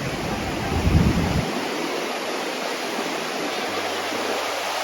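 Surf breaking and washing up a sandy beach, a steady rush of noise. A low rumble, loudest about a second in, cuts off suddenly after about a second and a half.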